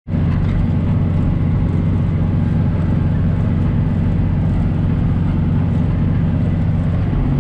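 John Deere 2940 tractor's six-cylinder diesel engine running steadily under load while pulling a rotary hay rake.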